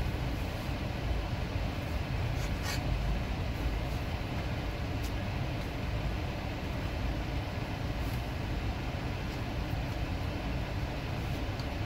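Steady low rumble of an idling car, heard from inside the cabin, with a few faint clicks.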